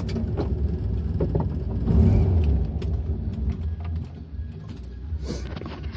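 Volkswagen Beetle's air-cooled flat-four engine idling, heard from inside the cabin, with a brief swell about two seconds in and a quieter stretch from about four seconds in. Light clicks and knocks of something being handled in the car.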